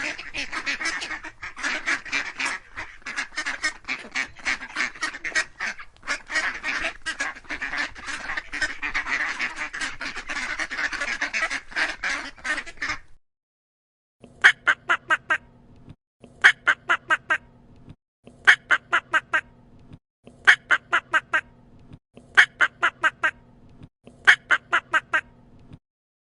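Ducks quacking: a flock calling over one another for about thirteen seconds, then after a short pause, runs of five or six quick quacks repeated about every two seconds.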